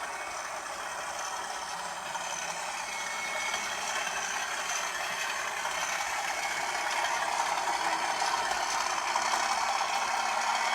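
British Rail Class 37 diesel locomotive's English Electric V12 engine running, with a thin turbocharger whistle over the engine noise, growing steadily louder.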